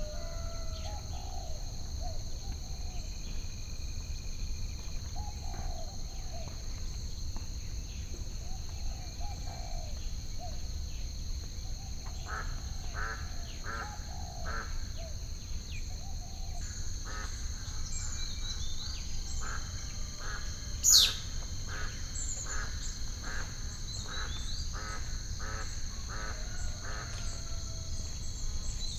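Added ambient nature soundtrack of birds calling: scattered calls, then a run of repeated calls about two a second, with one loud, sharp call about three-quarters of the way through. A steady high-pitched hum and a low rumble run beneath.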